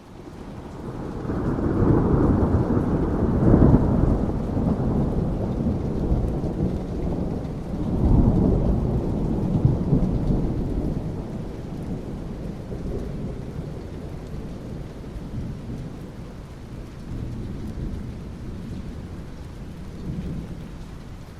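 Thunder rumbling over steady rain: a long roll builds over the first two seconds, peaks about three and a half seconds in, swells again around eight seconds, then slowly dies away under the rain.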